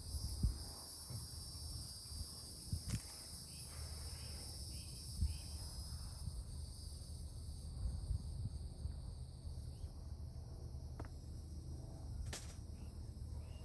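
Steady chorus of insects shrilling at several high pitches, over a low steady rumble, with a few scattered short knocks and clicks from work on the machine.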